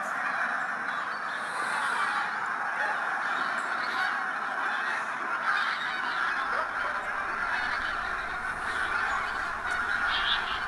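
A large flock of wild geese calling, many honks overlapping into a continuous, steady chorus.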